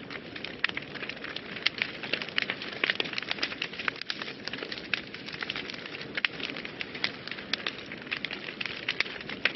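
Wood fire burning in a fireplace, with a steady hiss and dense, irregular crackles and pops.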